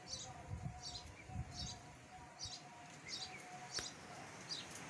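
High-pitched bird chirps repeating steadily, about one every three quarters of a second, over a faint steady hum, with a single sharp click near the end.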